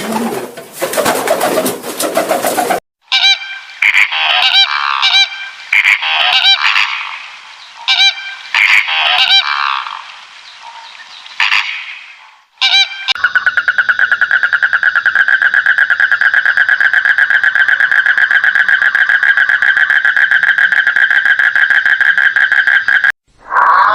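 Geese honking, a run of short repeated calls. About halfway through they give way to a long, steady, high trill of very rapid even pulses that lasts about ten seconds.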